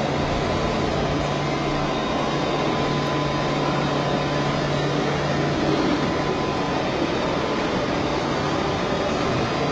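Steady factory machinery noise with a low hum that fades about six seconds in and a faint steady high tone.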